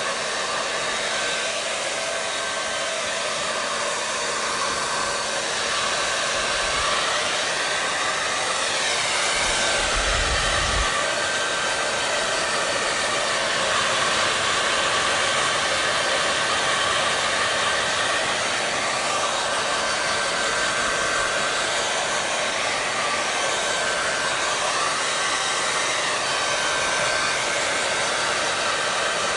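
Hair dryer running steadily: a continuous rush of air over a steady motor whine and hum, which wavers slowly every few seconds. There is a brief low rumble about ten seconds in.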